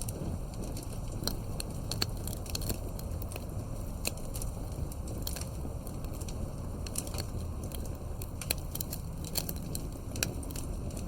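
Wood fire crackling: irregular sharp pops and snaps, several a second at times, over a steady low rush.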